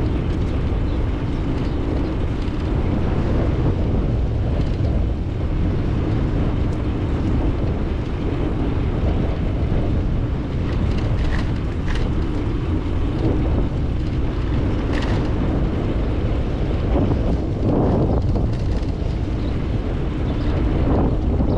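Steady low rush of wind buffeting a GoPro 9's microphone and road rumble while cycling, with a few faint ticks in the middle.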